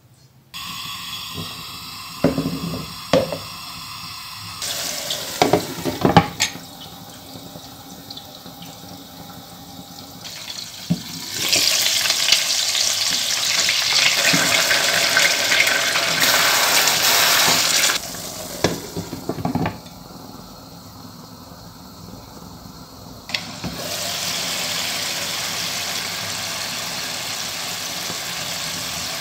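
Minced meat and cabbage patties sizzling in oil in a frying pan, with a few clicks and taps as they are handled. About eleven seconds in, water poured into the hot pan brings a much louder sizzle for several seconds. It then drops back and settles into a steady simmering sizzle.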